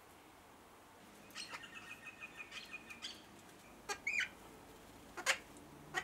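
Birds calling: a quick run of short chirps with held whistled notes about a second in, then a few sharp separate calls, the loudest near the end.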